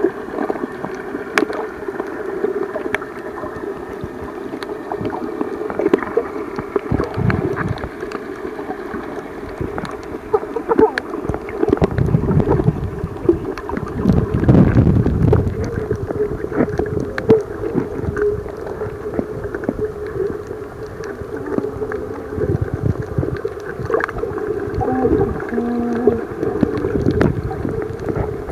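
Muffled underwater sound of a snorkeler in the sea: water sloshing and gurgling around the camera, with scattered sharp clicks and a steady low hum throughout.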